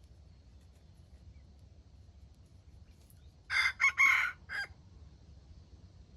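A jungle-chicken rooster crows once, about three and a half seconds in: a short crow in a few broken parts, just over a second long.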